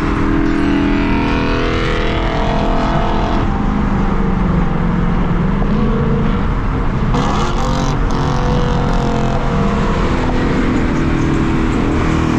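Car engine accelerating hard, its pitch rising over the first few seconds, then running at freeway speed over steady road and wind noise.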